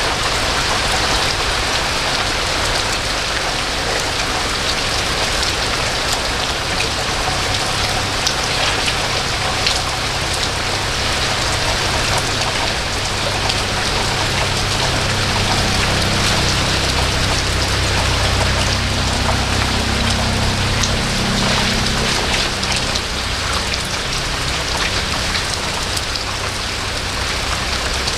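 Steady rain falling, a dense even hiss with scattered drop patter. A low rumble swells in the middle and fades away after about 22 seconds.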